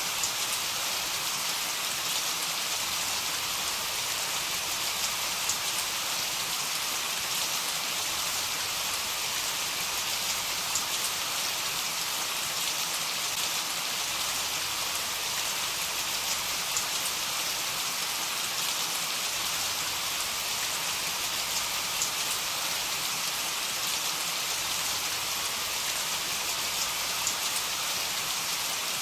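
Heavy rain falling steadily, an even hiss with scattered individual drops ticking.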